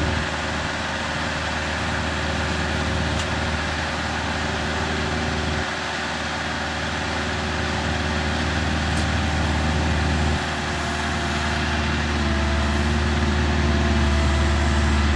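Diesel engine of a piece of digging equipment running steadily. Its note steps down at about six seconds and comes back up at about ten, as the machine's load changes.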